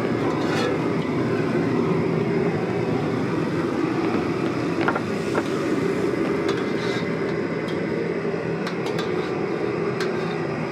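Steady loud rumbling noise, like a running machine or traffic, with a few faint clicks and knocks scattered through it.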